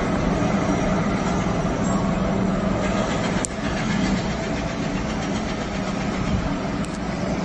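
Steady low rumble of a running vehicle, with one sharp click about three and a half seconds in.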